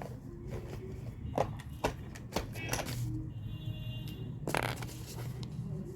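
Short, irregular scratching strokes of drawing on paper, with faint music underneath.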